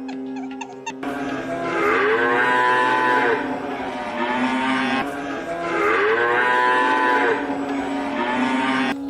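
Cow mooing: two long moos, each rising and then falling in pitch, the first starting about a second in and the second about five seconds in.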